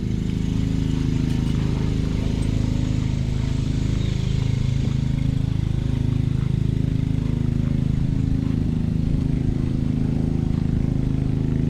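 An engine running steadily at constant speed: a low, even hum whose pitch wavers slightly.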